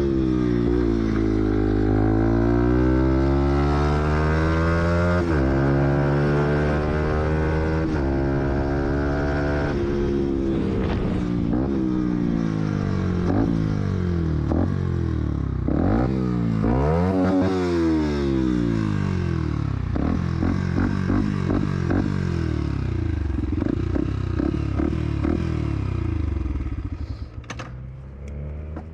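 Fantic XMF 125's single-cylinder four-stroke engine pulling through the gears. Its note climbs and then drops at each shift, at first about every five seconds, then in several quicker revs and drops. It fades out near the end.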